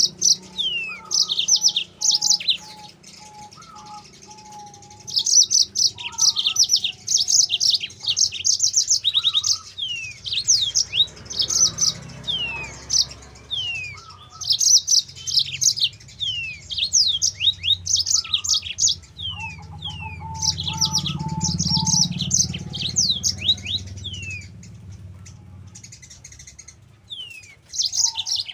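Yellow-fronted canary singing continuously: fast, high trilled phrases mixed with quick downward-sweeping whistles, with a few lower whistled notes between them. A low rumble rises in the background at times.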